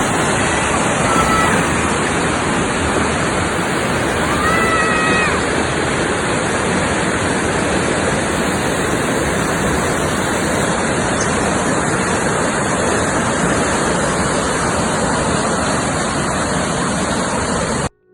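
Waterfall heard close by: a loud, steady rush of falling water. Two brief faint whistle-like tones rise above it, one about a second in and one around five seconds in.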